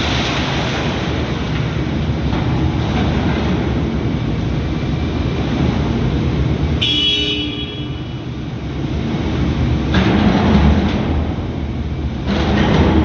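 Volvo ECR235EL excavator's diesel engine and hydraulics working, a steady mechanical din that swells louder about ten seconds in, with a brief high-pitched squeal about seven seconds in.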